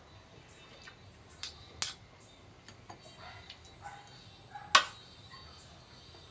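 Eating utensils clinking against a dish: two sharp clinks close together about a second and a half in, and a louder one near five seconds in.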